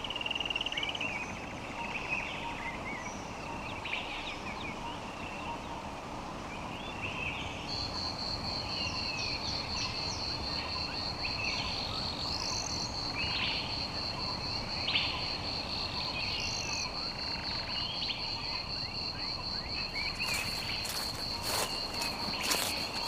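Forest ambience: assorted birds calling in short scattered phrases over a constant background hiss, joined about a third of the way in by a steady, high, pulsing insect trill. Near the end comes a run of sharp clicks.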